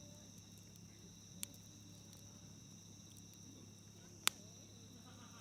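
Campfire crackling with two sharp pops of burning wood, one about a second and a half in and a louder one past the middle, over a steady chirring of crickets or other insects.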